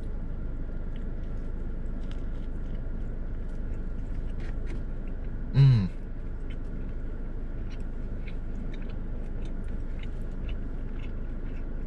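A man chewing a mouthful of burger with crispy fried onions: faint crunchy mouth clicks over a steady background hum, with one short hummed "mm" about six seconds in.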